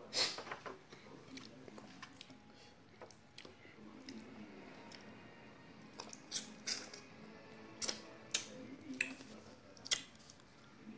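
A person chewing a mouthful of rice and fried fish, eaten by hand, with several short sharp clicks, most of them about six to ten seconds in.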